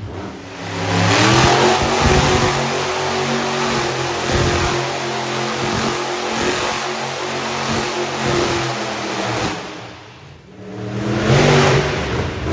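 Monster truck engine revving hard under throttle, its pitch rising and falling. The throttle eases off about ten seconds in, then opens up again near the end.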